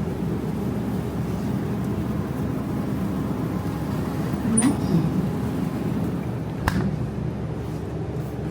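Steady low background noise of a supermarket, with faint murmur of other shoppers and one sharp click nearly seven seconds in.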